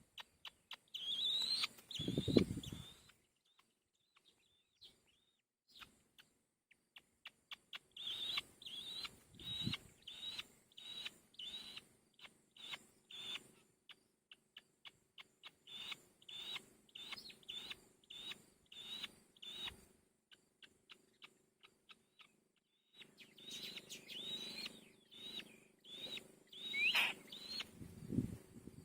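Small birds chirping in runs of short, high, slightly falling calls, about two a second, pausing now and then, with a few brief low thuds among them.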